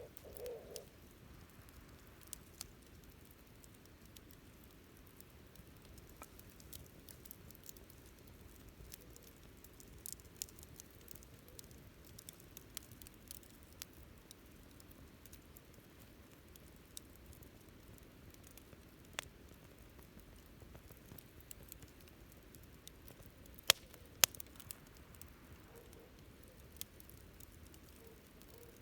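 Wood campfire crackling, with scattered small pops and ticks throughout and two sharp, louder pops about three quarters of the way through.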